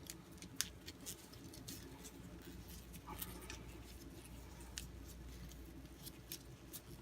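Faint, irregular crackling and clicking of electrical tape being pulled off the roll and wound around an engine wiring harness by hand, over a steady low hum.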